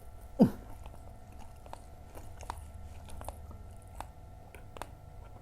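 Close-up chewing and biting of fried snacks and fresh chili peppers, with short crisp crunches every half second or so. About half a second in, one brief loud sound drops sharply in pitch, the loudest moment.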